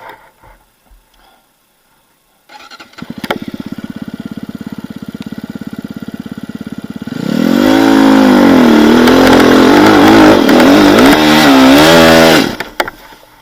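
An off-road vehicle's engine starts up about two and a half seconds in and runs steadily. A few seconds later it is revved hard and loud, its pitch swinging up and down, then drops off suddenly near the end.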